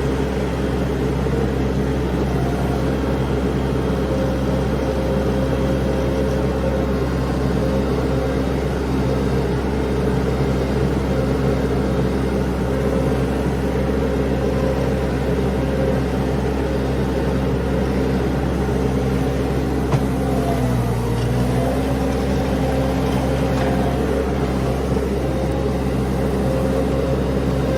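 Mini skid steer's engine running steadily, with a brief dip in pitch about three-quarters of the way through before it recovers.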